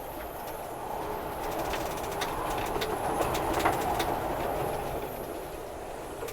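Strong storm wind gusting, building to a peak partway through and then easing, with scattered clicks and rattles.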